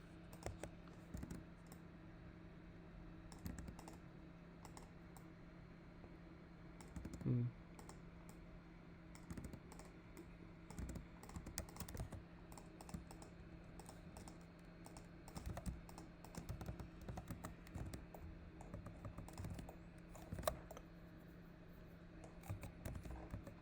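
Faint, irregular computer keyboard keystrokes and mouse clicks over a steady low electrical hum, with one brief louder low sound about seven seconds in.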